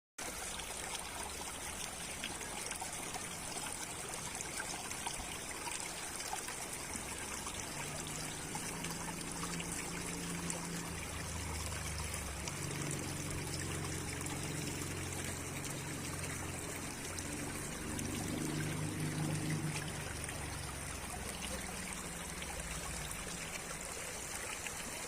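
Mountain stream running steadily, an even rush of water. A low hum joins in from about eight seconds in until about twenty seconds.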